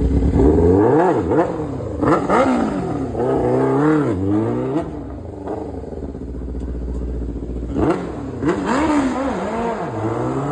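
Motorcycle engine revved up and down repeatedly. It settles to a steadier low run in the middle, then revs rise and fall again near the end.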